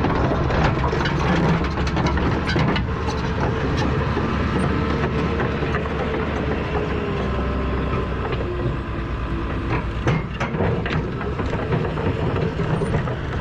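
Caterpillar D4 bulldozer's diesel engine running steadily after a jump start from a 12-volt jump pack, left running so the weak batteries can charge, with scattered metallic clanks and knocks over it.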